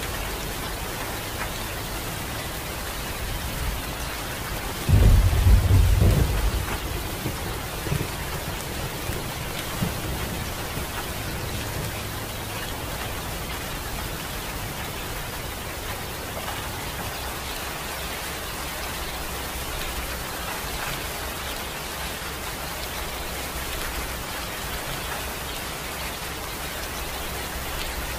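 Steady rain falling, with a sudden low rumble of thunder about five seconds in that lasts a second or so and fades out in a couple of fainter rumbles.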